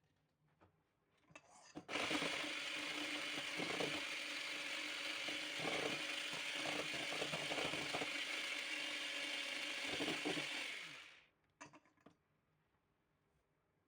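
A small electric kitchen appliance's motor runs for about nine seconds, grinding or chopping something hard with an uneven crackle over a steady hum, then stops abruptly.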